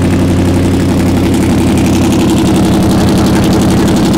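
1964 Dodge 330's 383 V8 idling steadily through its headers and exhaust, still warming up after a cold start.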